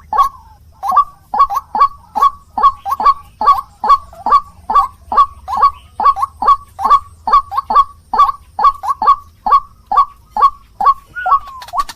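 White-breasted waterhen (ruak-ruak) calling: a fast, even series of loud, harsh notes, each falling in pitch, about two to three a second, with one longer gliding note near the end. It is a recorded territorial call of the kind played as a bird lure.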